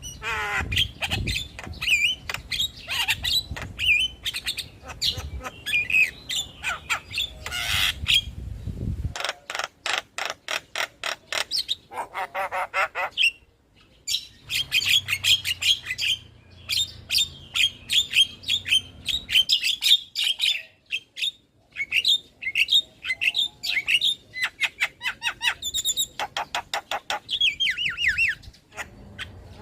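Black-winged mynas (jalak kebo) chattering in a dense, varied run of squawks, whistles and rapid rattling notes. A low rumble underneath stops abruptly about nine seconds in, and the background changes again twice, as the recording is cut together from several takes.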